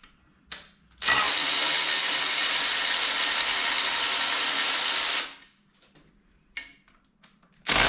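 Power tool running steadily for about four seconds, then starting again near the end, undoing the bolts of the water pipes on an engine being stripped down.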